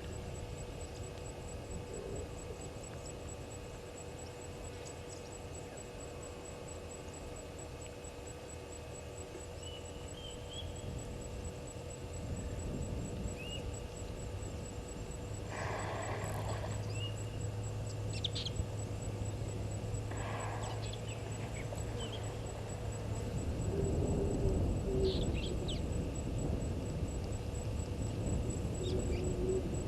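Bush ambience at a waterhole: a steady low rumble of wind and background noise that swells in the last third, scattered short bird chirps, and two harsher, rasping bird calls about halfway through, a few seconds apart.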